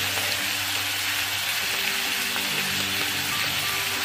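Onion, tomato and ginger-garlic paste frying in oil in a kadai: a steady sizzle.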